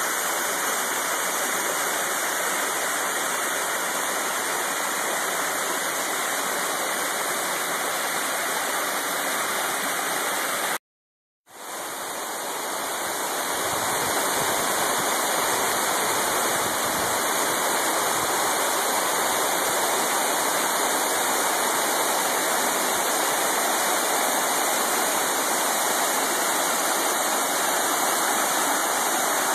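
Waterfall in a mountain creek: a steady rush of falling water. It drops out briefly about eleven seconds in, then swells back up over a couple of seconds.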